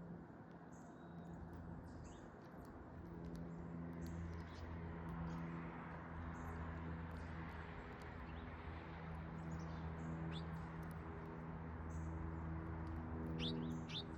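Backyard ambience under a steady low mechanical hum and a soft rush of noise. Small birds give scattered faint high ticks, and two short chirps come near the end.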